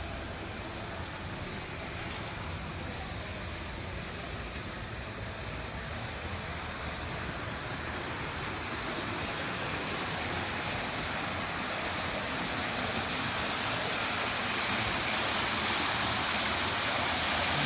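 Artificial waterfall: water pouring and splashing steadily, growing louder toward the end.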